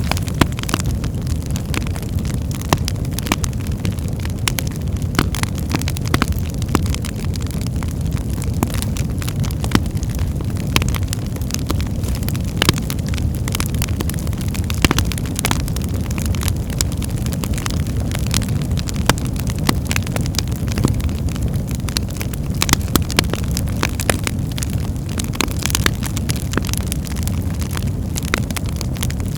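Wood fire of birch logs burning in a fireplace: a steady low rumble of flames with frequent sharp crackles and pops scattered irregularly throughout.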